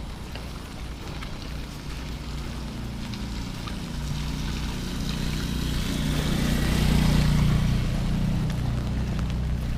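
A motor vehicle's engine passing by, building to its loudest about seven seconds in and then easing off, over a steady hiss of rain.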